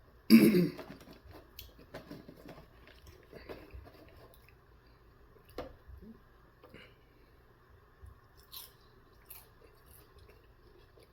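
Close-miked chewing of sauced chicken nuggets, with one louder burst about half a second in and then softer, irregular chewing and mouth clicks.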